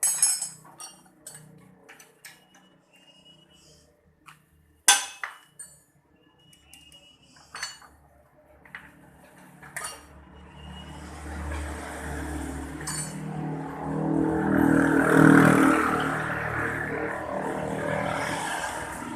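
Sharp metallic clicks and clinks, like tools being handled, for the first several seconds. Then the Daihatsu Luxio's engine runs, growing louder from about ten seconds in to a peak a few seconds later, and keeps running.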